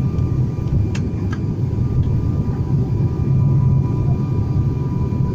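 Inside the cabin of a Buddha Air turboprop airliner on approach: a steady low engine and propeller drone with faint steady whine tones above it. Two short clicks sound about a second in.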